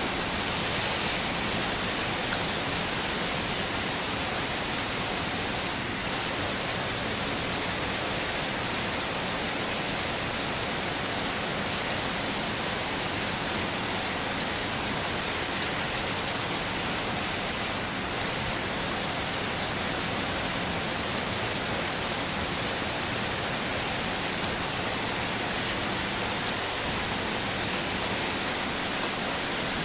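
Heavy rain falling steadily, a dense even hiss, with two very brief dips in the hiss, about six and eighteen seconds in.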